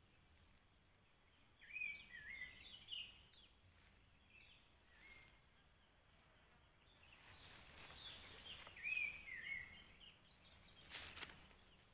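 Faint bird song: two short phrases of quick chirping notes, about two seconds in and again around eight seconds. A brief rustle of handling comes near the end.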